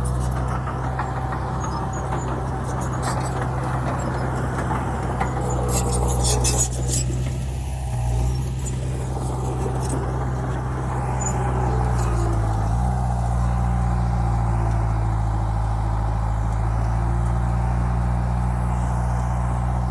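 Heavy diesel engine of earthmoving equipment running steadily, its pitch shifting down and back up a couple of times as the load changes. A brief rattling clatter comes about six seconds in.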